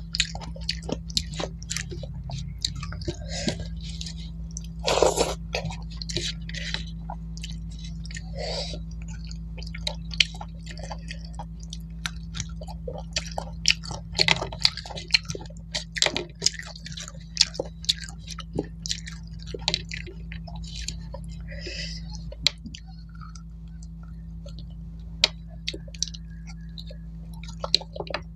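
A person chewing a mouthful of rice and mutton curry up close, with many irregular sharp mouth clicks and smacks. A steady low hum runs underneath.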